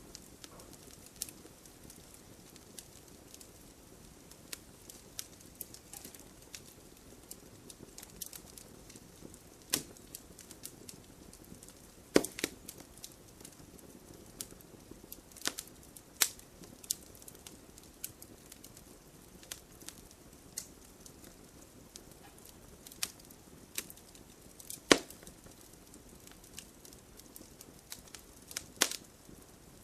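Wood fire in a fireplace crackling: scattered sharp pops and snaps at irregular intervals over a faint steady hiss of the flames, with a couple of louder pops about twelve and twenty-five seconds in.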